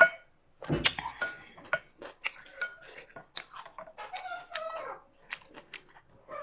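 Eating sounds: cutlery clicking and clinking against a bowl and plate in a rapid string of short, sharp knocks, some ringing briefly.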